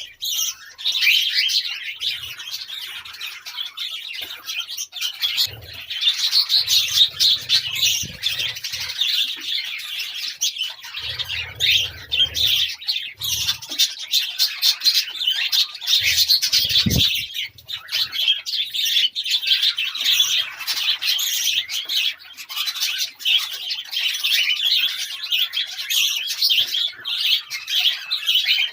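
Budgerigars chirping and chattering continuously in rapid, high twittering, with a few low thuds partway through.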